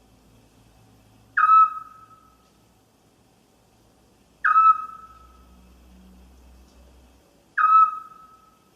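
An owl calling: three short, loud pitched calls about three seconds apart. Each starts sharply and settles into a fading steady note.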